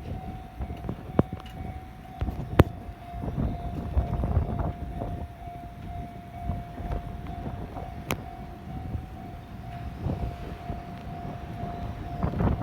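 Wind buffeting the microphone in uneven gusts, under a steady mid-pitched tone that holds for almost the whole time, with a few sharp clicks.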